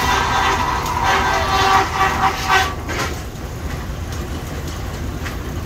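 Belt-driven sawmill running, with its engine rumbling steadily underneath. A louder, noisier spell over roughly the first three seconds dies away, leaving the steady running sound.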